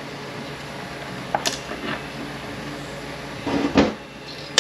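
Steady background hum with a sharp metallic click about a second and a half in and a louder clunk near the end, from transmission parts being handled on the bench.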